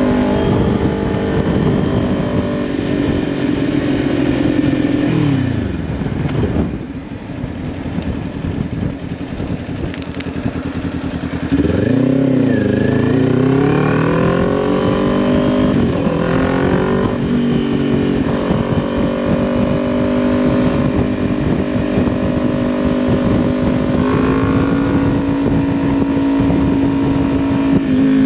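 Kawasaki Ninja 400's parallel-twin engine through a Leo Vince LV10 slip-on exhaust under way. It slows with the pitch falling to a low, quieter note for a few seconds. About halfway in it accelerates through several upshifts, the pitch climbing and dipping at each shift, then settles into a steady cruise.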